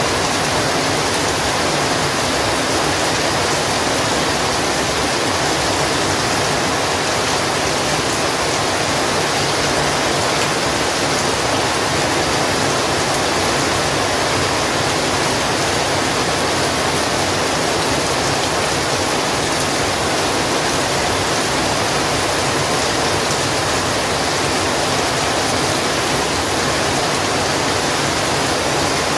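Heavy rain falling steadily as a dense, even hiss with no individual drops standing out.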